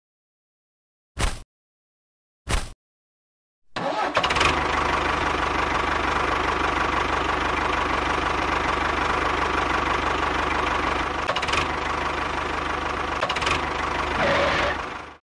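Two short, separate sounds, then a small motor starts about four seconds in and runs steadily for about eleven seconds before cutting off abruptly.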